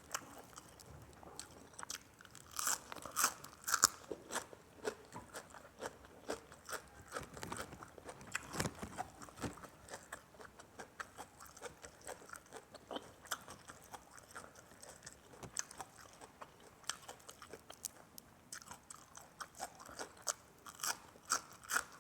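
A person chewing and biting crunchy raw vegetables close to the microphone: a steady run of crisp crunches and wet mouth clicks, louder around three seconds in and again near the end.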